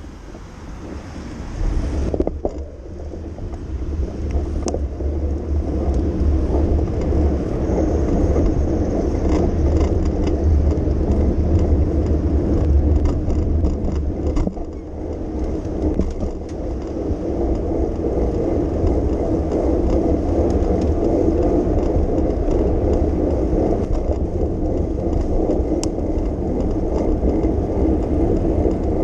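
Steady low rumble of street noise heard from a moving bicycle, with the road and passing traffic blended together. It grows louder over the first few seconds and stays even after that.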